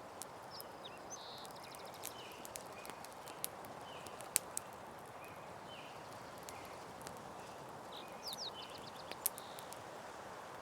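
Campfire crackling, with scattered sharp pops and snaps over a steady hiss. A bird trills briefly near the start and again near the end, and short chirping calls repeat throughout.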